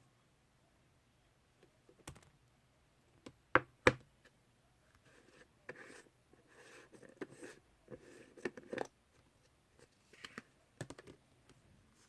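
Slime and its plastic container being handled: a few sharp clicks and taps, the loudest two close together near four seconds in, then several seconds of soft crackling and squishing, and a few more clicks near the end.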